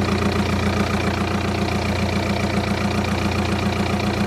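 Volkswagen Passat B6's two-litre engine idling steadily, with an even pulsing rhythm. Its rebuilt alternator is charging normally.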